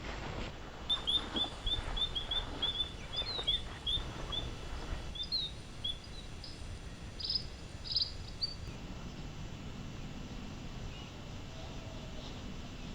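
A small bird chirping, a quick run of short high chirps about three a second for several seconds, then a few scattered notes, over steady low wind noise.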